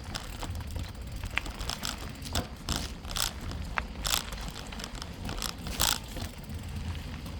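A bicycle being ridden along a dirt trail: a steady low rumble of tyres and wind on the microphone, with a few short clatters and rattles over the bumps.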